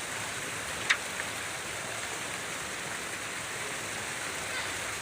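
Steady rush of falling water, with one short sharp click about a second in.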